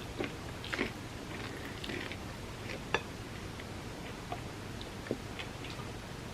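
Close-miked chewing and wet mouth sounds of someone eating soft chocolate cake soaked in almond milk: scattered short smacks and clicks, with one sharper click about three seconds in.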